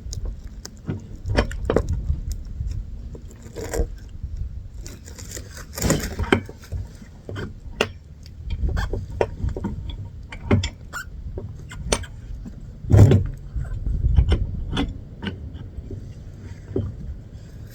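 Mini bike parts and hand tools being handled and fitted: irregular metal clinks, knocks and scrapes, with a louder knock about 13 seconds in.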